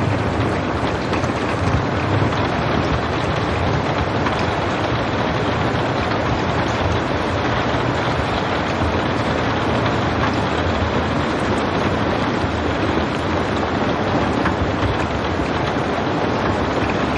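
Steady rain falling, an even hiss with a low rumble beneath and no thunder.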